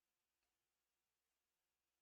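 Near silence: digital silence with no audible sound.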